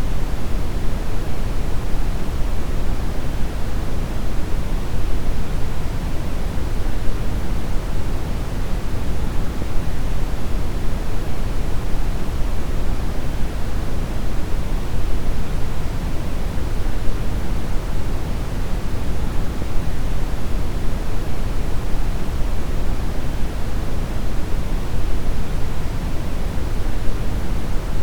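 Steady brown noise: a deep, even rushing hiss with most of its energy in the low rumble and much less in the treble, unchanging throughout.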